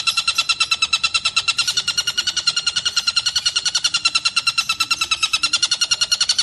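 Collared kingfisher (tengkek buto) calling in a fast, unbroken rattle of harsh, evenly repeated notes, about ten a second, at a steady pitch and loudness.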